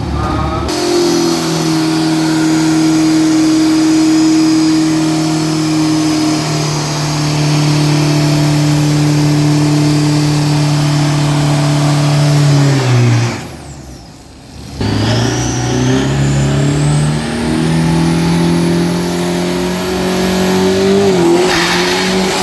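2,500 cc diesel pickup truck engine at full throttle on a quarter-mile drag pass. The note holds steady and high for long stretches and steps at gear changes. About thirteen seconds in, the sound briefly drops away, then the engine note comes back and climbs again.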